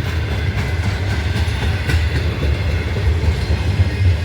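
Freight train cars rolling past on the rails, a steady low rumble with a few faint wheel clicks.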